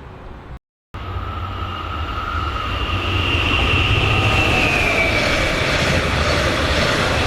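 A train coming close and passing, loud rail and running noise with a high motor whine that dips slightly in pitch midway. The sound cuts out for a moment near the start.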